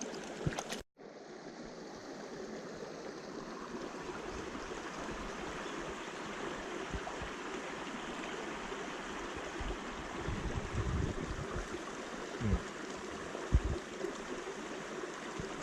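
Mountain stream water rushing and burbling steadily, with a few brief low bumps.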